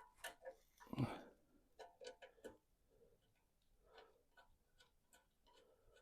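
Faint, irregular light clicks and taps of small metal parts being handled as bolts are fitted and started by hand, with one louder knock about a second in.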